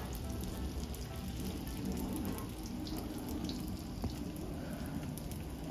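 Pieces of bread dough frying in shallow oil in a stainless skillet: a steady sizzle with small pops. A fork turning them clicks against the pan about four seconds in.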